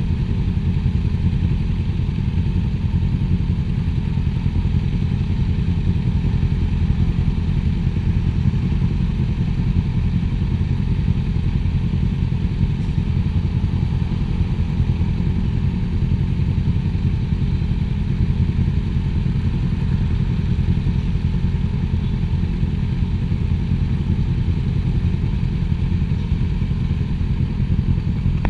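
Motorcycle engine running steadily at an even cruising speed, with no revving or gear changes.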